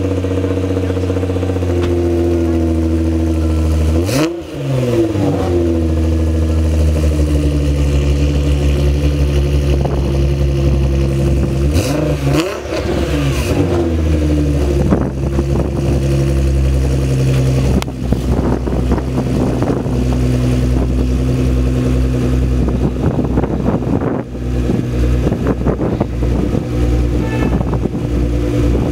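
Sports car engine running loud and steady. Its pitch briefly drops and climbs back about four seconds in and again around twelve seconds in.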